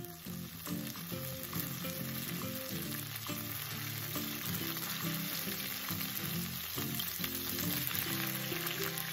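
Oil sizzling steadily as shredded perilla leaves and ginger are stir-fried and stirred in a nonstick pan, with light background music underneath.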